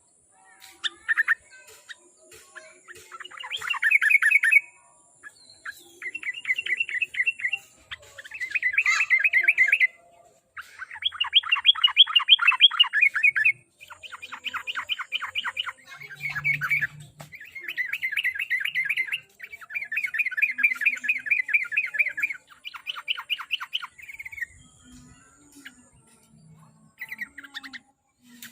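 Yellow-vented bulbul (trucuk) singing: repeated bubbling phrases of rapid notes, each lasting a second or two with short pauses between, with a quieter lull shortly before the end.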